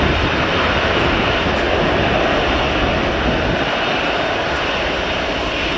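Airliner engine noise, steady and dense, easing slightly toward the end, with low wind rumble on the microphone.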